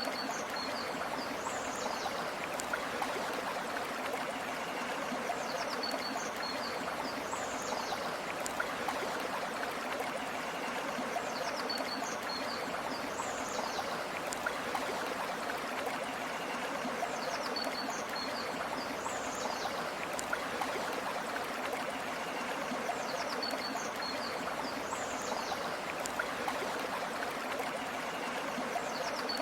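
River or stream water flowing steadily. About every six seconds a high call repeats in the same pattern: a few short chirps followed by a falling whistle.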